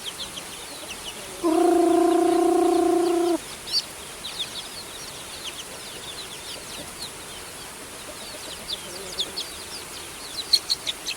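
Chicks peeping, with many short, high, falling cheeps all through. About a second and a half in, a loud, steady, even-pitched tone sounds for about two seconds, then stops.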